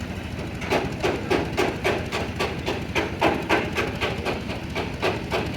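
Hand hammer striking metal in rapid, even blows, about four a second, with a short break near the end, over a steady low hum.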